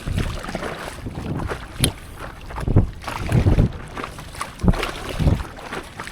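Water splashing and sloshing around a stand-up paddleboard as it is paddled, in irregular surges, with wind buffeting the microphone. A single sharp tap about two seconds in.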